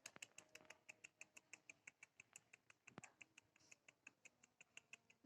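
Faint, rapid, evenly spaced short high ticks, about six a second, slowing a little toward the end, with one sharper click about three seconds in.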